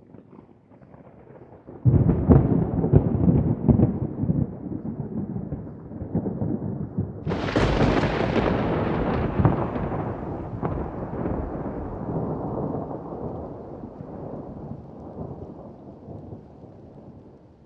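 Thunder: a sudden crackling clap about two seconds in, rumbling on, then a second, sharper and brighter crack about seven seconds in that trails off into a long rumble slowly fading away.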